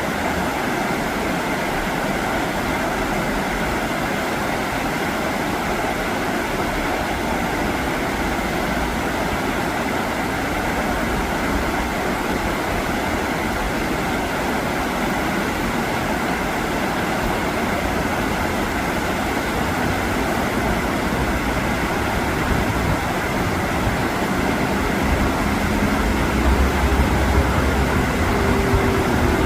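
Rough river current rushing steadily. About 25 seconds in, a low rumble swells up under it with a faint hum.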